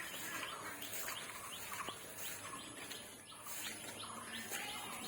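Small birds chirping: many short, quick falling chirps, several a second, over a faint outdoor background.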